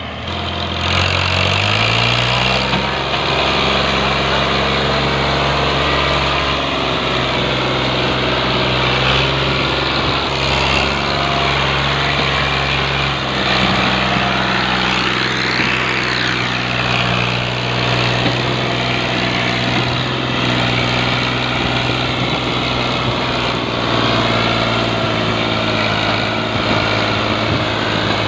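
New Holland tractor's diesel engine revving up about a second in, then running at steady speed.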